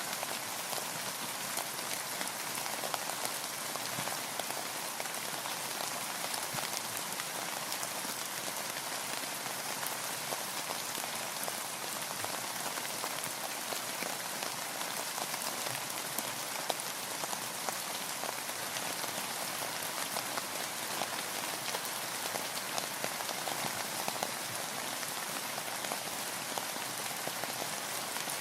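Steady rain falling, with dense fine pattering of drops on a hard surface.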